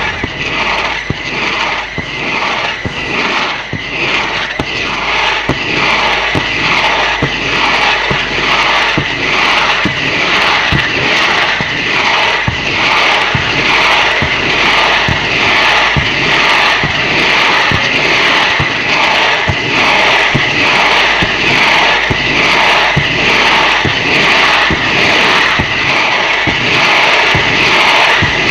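Fireworks display going off in a fast, even sequence, about two reports a second over a continuous rushing hiss, each report with a short falling sweep.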